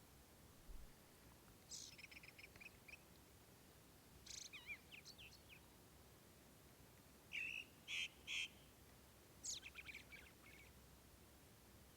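A songbird singing four short, high phrases a couple of seconds apart; the third is three loud separate notes.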